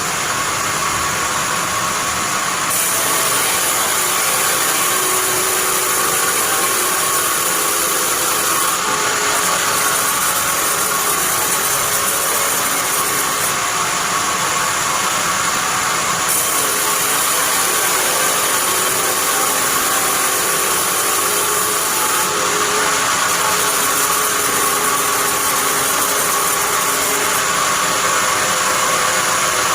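Band sawmill running, a steady loud machine noise that is mostly high-pitched.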